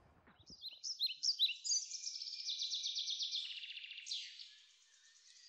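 A songbird singing: a few quick high chirping notes that run into rapid trills, fading away near the end.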